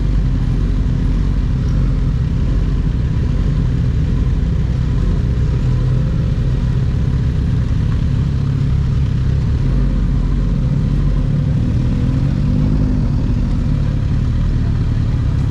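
Inline-four sport motorcycle running steadily at highway speed, under heavy low wind rumble.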